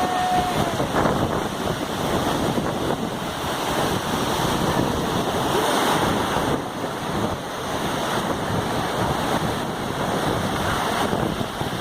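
Flooded river rushing in a strong, steady torrent, with wind buffeting the microphone.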